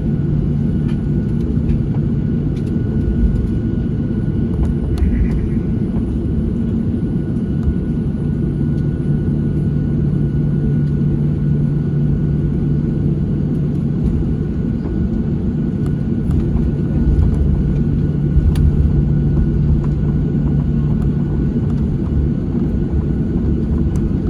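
Steady low rumble inside the cabin of a Boeing 737-700 with its CFM56-7B jet engines running, over a constant hum, with a few faint clicks.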